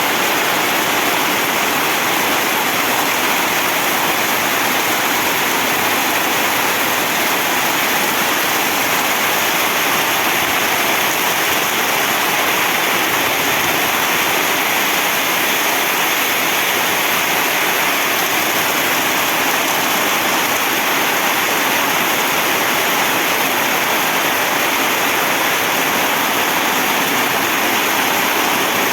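Heavy rain falling in a steady downpour, an even hiss with no letup.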